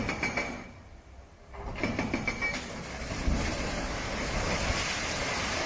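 Heavy truck working. A short high squeal comes at the start and again about two seconds in, then a steady, louder rushing noise takes over.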